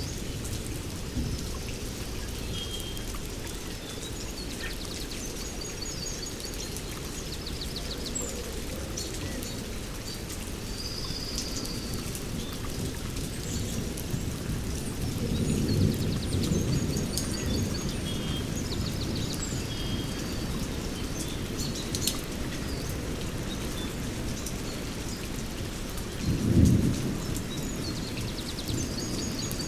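Steady rain falling in a rainforest thunderstorm, with thunder rumbling twice: a longer roll about halfway through and a shorter, louder one near the end. Birds chirp and trill now and then over the rain.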